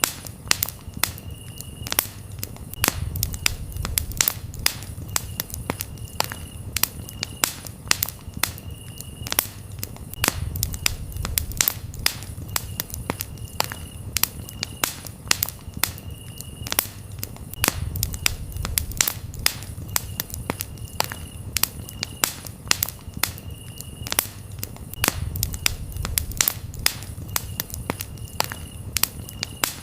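Campfire crackling with frequent irregular sharp pops, over a low rumble of flame that swells every several seconds. Crickets chirp in short repeated bursts behind it.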